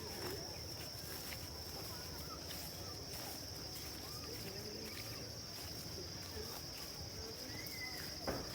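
Crickets chirping in a steady high-pitched chorus, with a single sharp knock near the end.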